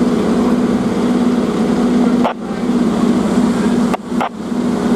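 Fire apparatus engine running with a steady, loud drone, broken by two brief dips with short clicks about two and four seconds in.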